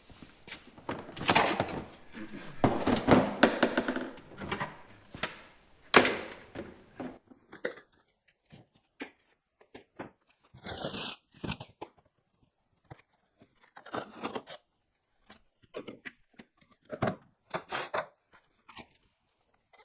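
Knocks, clatter and rustling of gear being handled in a small room. The sound is dense for about the first seven seconds, stops abruptly, and then comes back as scattered single knocks and clicks.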